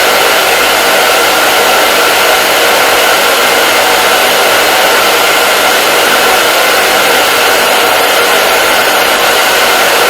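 Hair dryer running steadily, a constant loud rushing hiss of fan and airflow with a faint steady whine in it.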